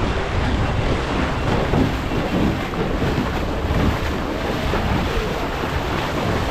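Wind buffeting the microphone in a steady low rumble, over choppy water splashing.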